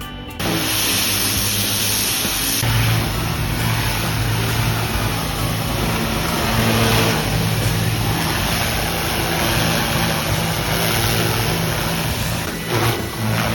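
Gas-engine pressure washer running steadily with the hiss of its water spray, starting abruptly about half a second in.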